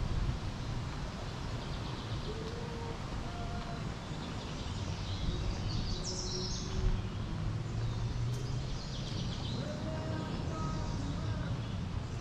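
Songbirds chirping in short bursts from the trees, over a steady low outdoor rumble.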